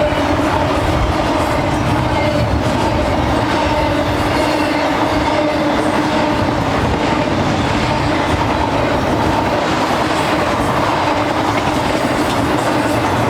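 BNSF freight train cars rolling past on the rails: a steady, loud running noise with a faint steady hum in it, unbroken throughout.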